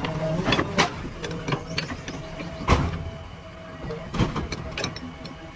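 Backhoe loader's diesel engine running steadily, with a series of sharp metallic clanks and knocks, the loudest about a third of the way in and again near two-thirds.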